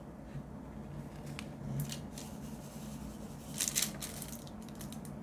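Short crisp clicks and rustles from handling diamond-painting drills and their small plastic bag, with a louder cluster about three and a half seconds in.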